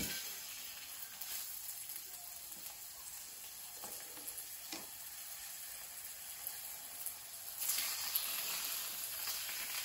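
Flour-dusted chicken breast pieces sizzling as they are laid into hot fat in a frying pan. The sizzle starts as the first piece goes in and grows louder near the end as more pieces are added.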